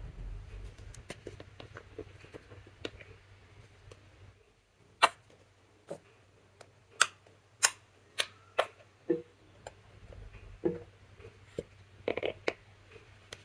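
Slime being handled, with faint crackling, then a series of sharp, separate clicking pops from about five seconds in, a few with a short squishy tail.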